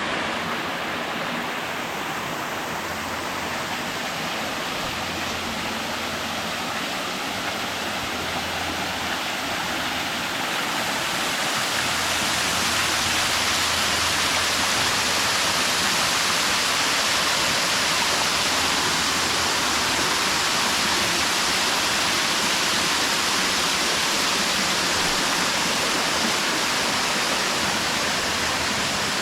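Waterfall rushing: a steady hiss of falling water that grows louder about twelve seconds in.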